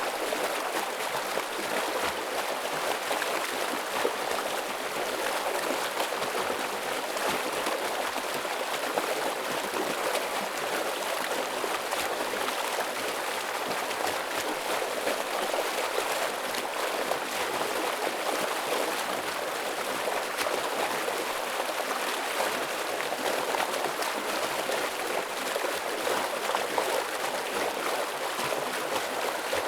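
Mountain stream flowing heavily over rocks, a steady rush of water with fine splashing and gurgling.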